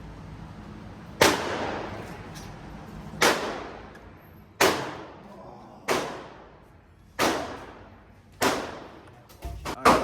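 AR-15 rifle in 5.56 fired seven times at a slow, steady pace, roughly one shot every second and a half. Each shot is a sharp crack followed by an echoing tail from the indoor range.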